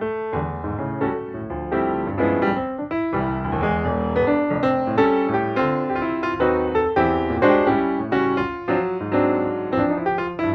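Background music led by a piano, playing a busy run of notes and chords.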